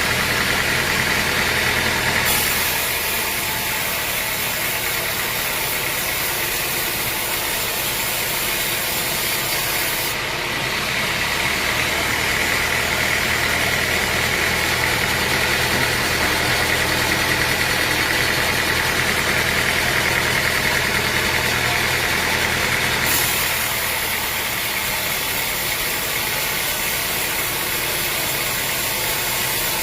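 Sawmill machinery running steadily: a continuous engine drone with a high whine on top, its upper hiss switching abruptly a few times.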